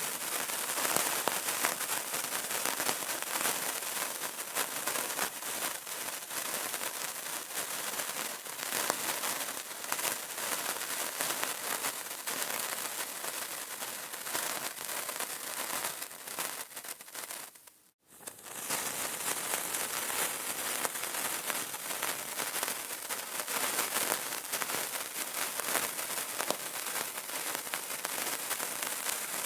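Burning candle crackling, a dense, continuous patter of rapid small crackles and pops. Near the middle it fades briefly to silence and comes straight back.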